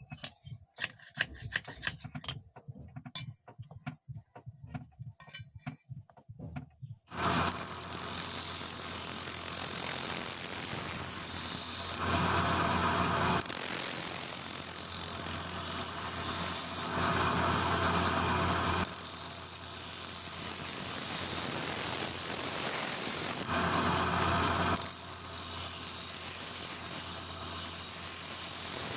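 A few seconds of light clicks and taps, then an electric power tool starts about seven seconds in and runs steadily with a motor hum. It grows louder and harsher in stretches every five or six seconds, typical of abrasive work on the knife.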